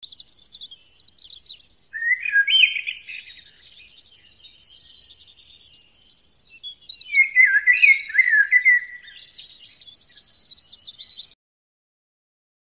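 Birds chirping in quick, high twittering phrases, with louder spells about two seconds in and again around seven to nine seconds in. The sound cuts off abruptly near the end.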